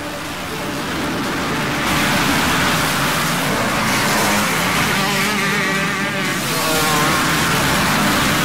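Motocross bike engines running loud on a track, their pitch wavering as the riders rev and back off.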